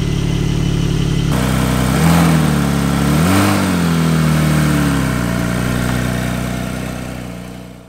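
Porsche 911 flat-six engine running, revved up from idle about two seconds in and held, with a higher blip in the middle. The revs drop back a little after five seconds, and the sound fades out at the end.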